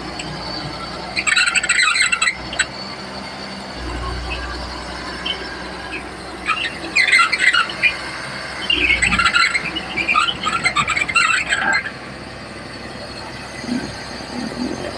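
Komatsu D31P bulldozer working on a power test: its diesel engine runs low and steady, rising briefly twice. Over it come high squeals in three bouts, the longest about three seconds near the middle.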